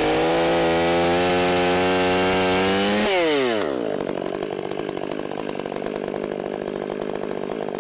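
Gas chainsaw held at full throttle for about three seconds, then let back down to a lower, uneven idle that runs on.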